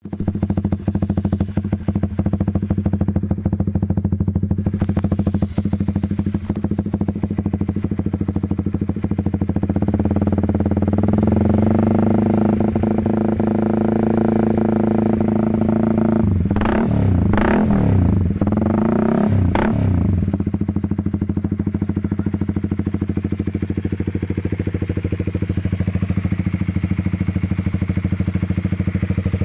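Honda CBR150's single-cylinder four-stroke engine running through an aftermarket Akrapovič exhaust: idling steadily, then held at higher revs for several seconds, then blipped sharply about three times before settling back to idle.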